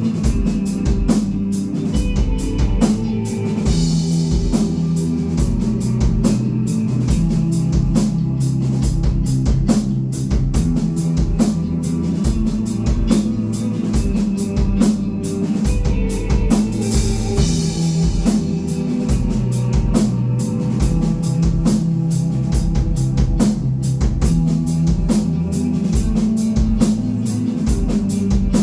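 Rock band playing live: a drum kit keeps a steady, fast beat under guitar and bass, with brighter cymbal-like washes about four and seventeen seconds in.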